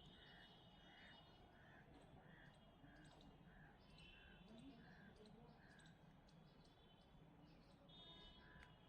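Faint bird calls: a short note repeated steadily, a little under twice a second, for about six seconds, then twice more near the end.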